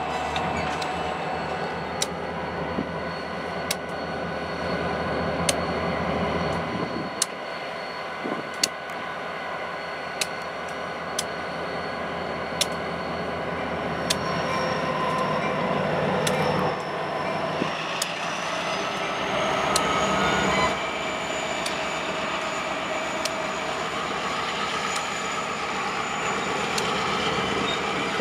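Freight train with diesel locomotives rolling past at close range: a steady rumble of wheels on rail, with a sharp click every second or two as wheels cross rail joints. Later a high whine rises in pitch as the locomotives pass.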